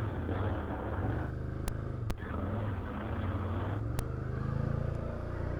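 Can-Am Outlander 850XT ATV's V-twin engine running on a trail, its pitch rising and falling with the throttle. Three brief sharp clicks come through it.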